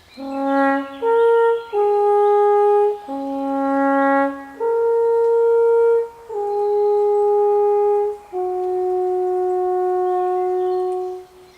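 Alphorn playing a slow melodic phrase of about nine sustained notes, ending on a low note held for about three seconds before it stops.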